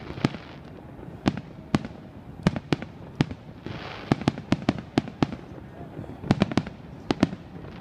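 Fireworks exploding: a string of sharp bangs at irregular intervals, several coming in quick runs of two to four, with a short hiss about four seconds in.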